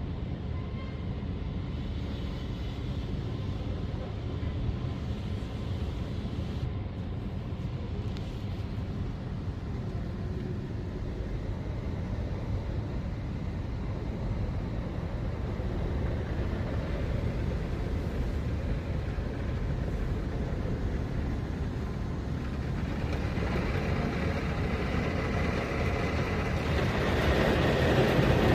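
A steady low rumble, like a vehicle, growing louder and brighter over the last few seconds.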